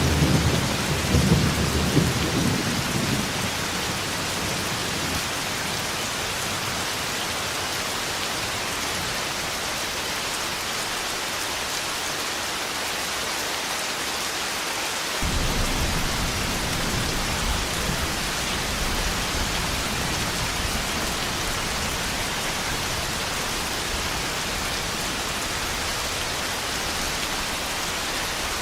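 Thunderstorm: steady heavy rain with a low rumble of thunder at the start that dies away within a few seconds. A second, lower rumble of thunder comes in suddenly about halfway through and rolls on under the rain.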